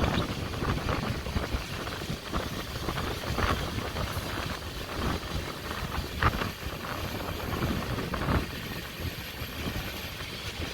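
Rajdhani Express passenger train running: a steady rumble of the moving coaches with wind noise, and a few separate knocks spread through it.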